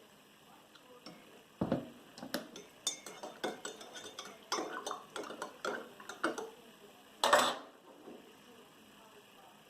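A spoon clinking against a coffee cup: a quick run of small clinks and knocks for about five seconds, then one short, louder noisy sound near the end.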